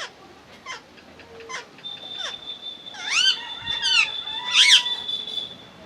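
Pet parrot calling: short falling chirps spaced a little under a second apart, then louder arching squawks around three and four and a half seconds in. A steady high whistle-like tone runs under the louder squawks from about two seconds in.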